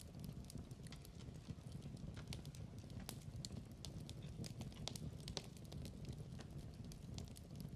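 Wood fire crackling in a fireplace: frequent, irregular sharp pops and snaps over a low, steady rumble.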